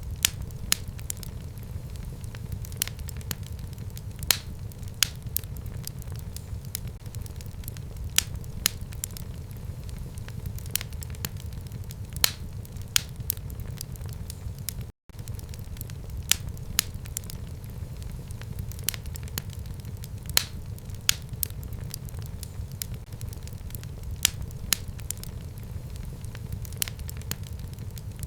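Fire burning in a home fireplace: a steady low rumble with frequent sharp crackles and pops at irregular intervals. The sound drops out for a moment about halfway through.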